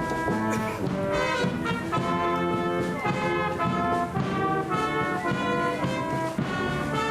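A live brass band playing a piece: trombones and trumpets sounding sustained notes in chords that change every second or so.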